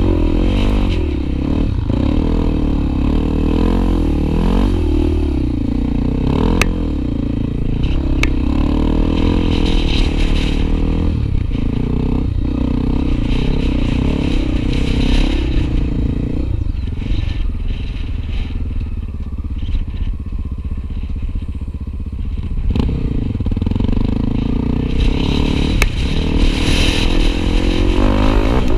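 Honda XR250 Tornado single-cylinder trail motorcycle engine running under way, its revs rising and falling repeatedly, with a few sharp clicks along the way.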